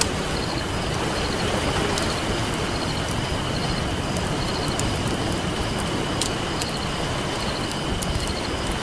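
Campfire crackling with a few sharp pops over a steady wash of ocean waves.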